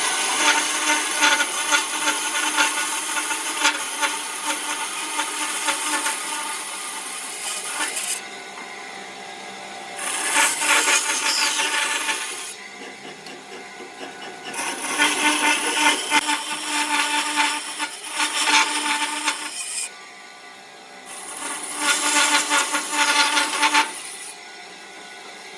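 A power tool working wood in four bursts of several seconds each, with short quieter pauses between them; its motor holds a steady tone under the rasp of the wood.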